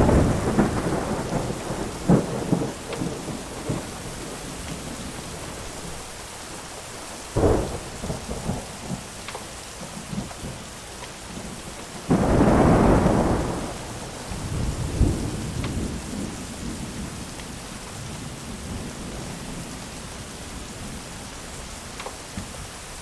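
Thunderstorm with steady rain. Thunder rolls out of the opening and cracks sharply about seven seconds in, and the loudest rumble swells up about twelve seconds in and rolls for a couple of seconds. A few faint pops from a crackling wood fire come through the rain.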